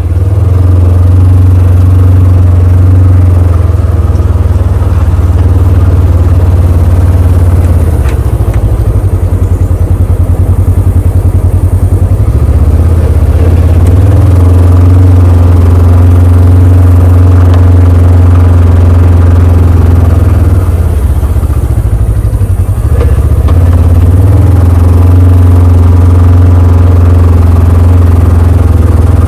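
A small vehicle engine running loud and steady close to the microphone. It eases off about eight seconds in and again a little past twenty seconds, then settles back each time.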